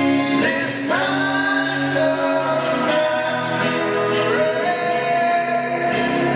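Live acoustic band performance: a singer's voice over acoustic guitar. A sung phrase slides up into a held note about half a second in, and another about four seconds in.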